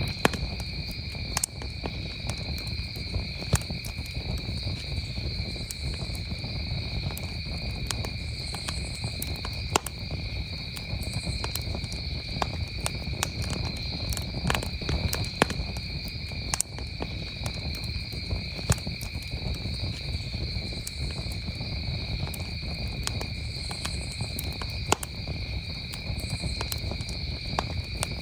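Campfire crackling, with sharp pops at irregular moments, over a steady, high-pitched trilling chorus of crickets.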